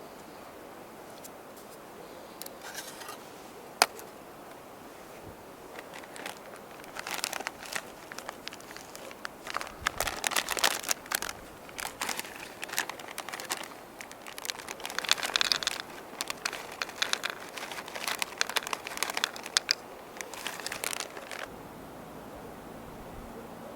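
Crinkling and crackling of something being handled, in irregular bursts from about six seconds in until near the end, with a single sharp click about four seconds in.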